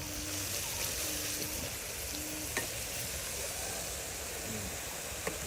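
Food frying in hot oil, a steady sizzle with a few light clicks.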